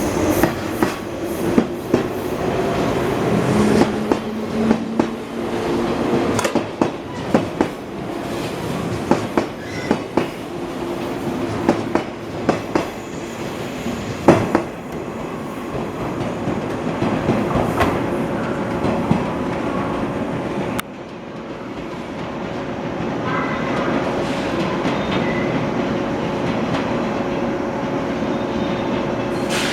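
A 583 series electric train pulling out of the station, its wheels clicking rapidly over rail joints with a steady motor hum underneath. The clicking thins out after about fifteen seconds, and the sound drops suddenly about 21 seconds in, then settles into a steadier hum.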